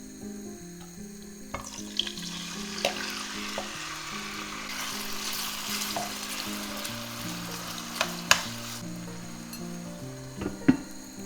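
Food sizzling in a frying pan, the hiss swelling in the middle and dying down near the end, with sharp clicks of a utensil against the pan.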